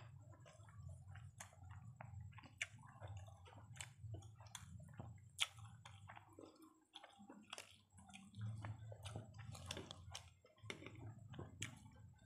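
Close-miked chewing with irregular wet mouth clicks and smacks, as two people eat biryani rice by hand, with fingers squishing rice on the plates.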